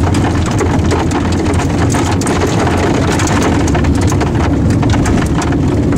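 Steady vehicle engine and road noise heard from inside the cabin, with raindrops striking the car in many sharp ticks.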